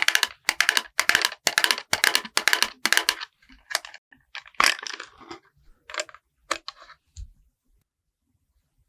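A makeup tool working thick cream onto a watermelon's rind in quick, even strokes, about eight in the first three seconds, then scattered lighter strokes and taps that stop about seven seconds in.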